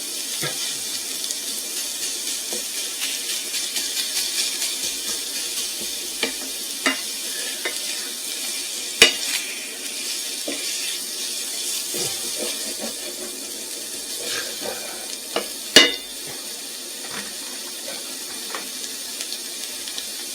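Pork sage sausage frying in a pan with a steady sizzle, broken by a few sharp clicks of a utensil against the pan as it is stirred. The pan is fairly dry: the lean sausage is giving up little fat.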